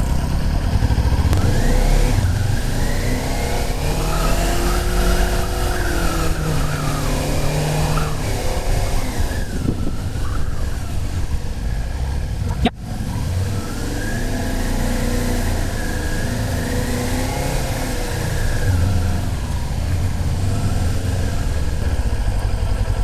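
Motorcycle engine running on the move, its pitch climbing and falling twice as it revs up and down through the gears, over a heavy low rumble. A brief click about 13 seconds in.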